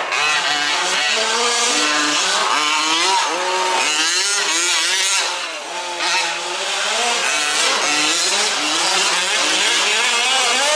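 Several 1/5-scale petrol RC off-road trucks racing, their small two-stroke engines revving up and down over one another as they accelerate and brake around the track.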